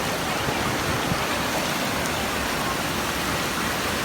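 Steady rushing noise of ocean surf, an even wash with no distinct breaks.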